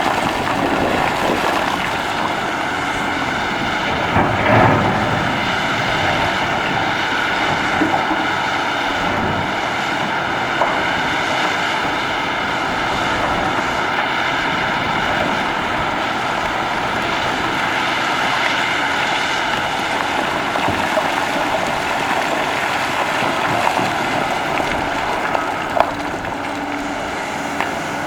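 Caterpillar 6015B hydraulic mining excavator running steadily, a dense machine noise with a whine of several tones, broken by a few sharp knocks.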